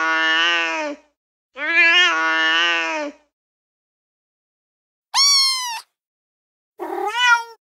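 Recorded domestic cat meows played from a cat-sounds phone app: two long, drawn-out meows, then after a pause of about two seconds a short higher-pitched meow and a brief call with a wobbling pitch near the end.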